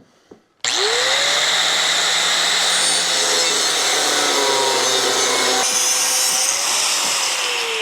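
Angle grinder with a cutoff wheel switched on about half a second in, its motor whine rising as it spins up, then cutting steel plate with a loud, steady, hissing cutting noise. Near the end the motor pitch starts to fall as the grinder is let off.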